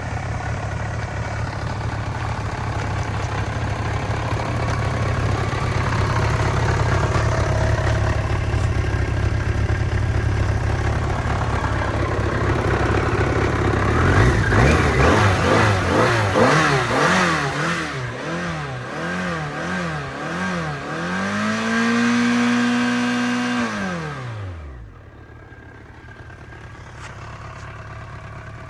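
BMW 1200GT motorcycle engine running steadily, then revved up and down about six times in quick succession, held at a higher rev for a few seconds, and switched off, spinning down to a stop.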